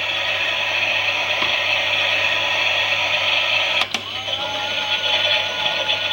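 Klein toy Miele washing machine running: a steady hissing whir, a click about four seconds in, then a steady wavering whine with two tones on top.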